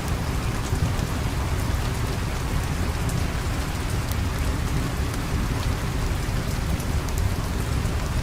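Steady rain, a dense even hiss over a deep continuous low rumble, with scattered sharp little ticks.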